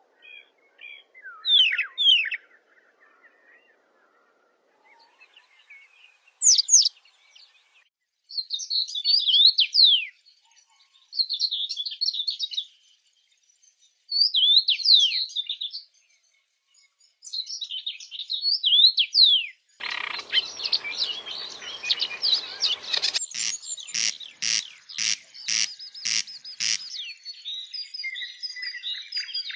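Forest songbirds singing: short phrases of quick rising and falling whistled notes with pauses between them. After about twenty seconds, a harsher rasping call starts, with a run of sharp notes about twice a second, and a dense high chatter carries on near the end.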